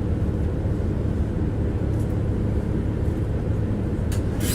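Tram running, heard from inside the passenger car: a steady low rumble of the wheels on the rails and the running gear, with a few faint clicks near the end.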